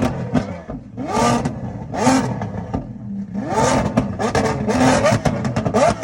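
Lamborghini Aventador SVJ's V12 engine revved hard in short blips about once a second, with a longer rev near the middle. In the second half a rapid series of short sharp cracks comes from the exhaust.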